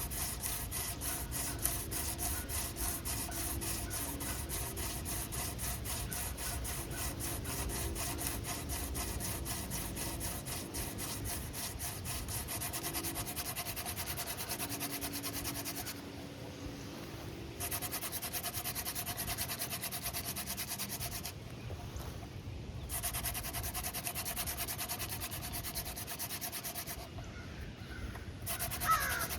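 Fast, rhythmic dry rubbing and scraping of wood and plant material by hand, with three short pauses. A crow begins cawing at the very end.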